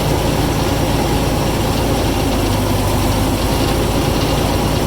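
Heavy diesel engine of a backhoe running steadily, pulling a dozer back along its track.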